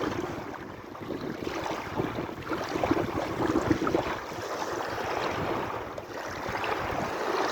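Sea waves lapping and splashing, swelling and easing, with dips about a second in and near the end.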